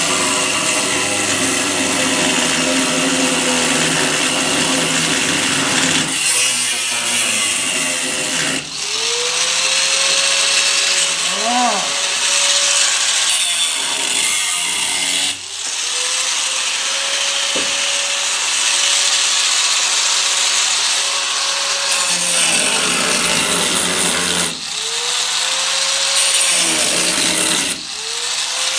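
Handheld power grinder working on the car's body sheet metal, a loud grinding hiss throughout. Its motor stops briefly and spins back up to a steady whine four times after the first several seconds.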